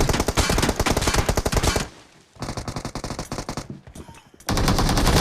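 Video game automatic gunfire in long rapid bursts: a loud burst, a short break about two seconds in, a quieter burst, then another loud burst near the end.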